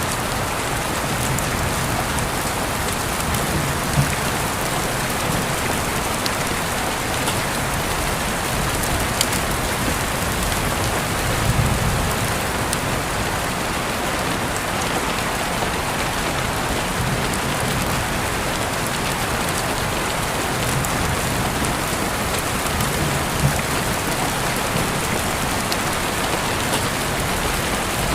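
Steady rain falling on surfaces: an even hiss of drops with a few sharper, louder drop ticks now and then.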